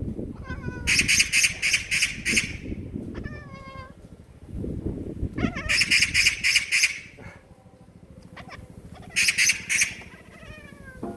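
A magpie's harsh, rapid rattling chatter, three loud bursts about four seconds apart. Between them a cat chatters back at the bird in quick runs of short, falling chirps.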